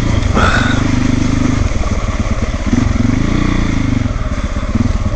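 Single-cylinder trail motorcycle engine revving up and down repeatedly as the throttle is worked, pushing through thick mud.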